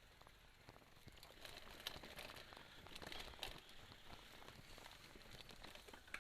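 Mountain bike rolling over a dirt trail: tyres crunching on the ground, with scattered sharp clicks and knocks. Louder for a few seconds starting about a second in.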